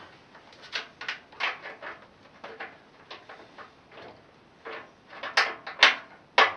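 Metal hand tools clinking and scraping in a string of irregular knocks: sockets being handled and tried on a bolt. The loudest are a few sharp clanks near the end.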